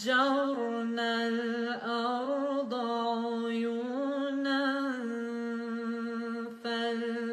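A woman's voice in melodic Quran recitation (tajweed), holding long, ornamented notes that waver and turn in pitch, with a few brief breaks for breath.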